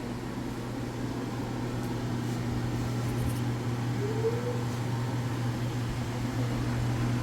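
Steady low hum and air noise of indoor ventilation, with a short faint tone about four seconds in.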